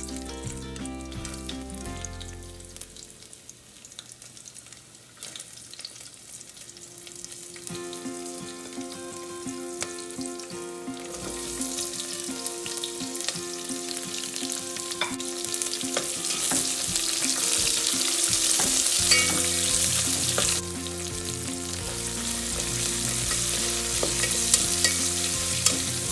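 Sliced onions, garlic and green chillies frying in an aluminium pot and being stirred with a wooden spatula. The sizzle is quiet at first and grows louder from about a third of the way in.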